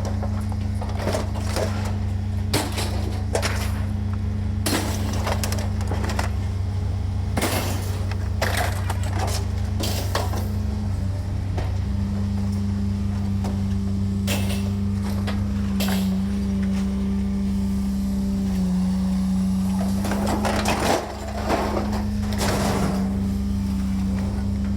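An engine running steadily with a low drone, its pitch shifting a little a few times, under repeated short knocks and clanks.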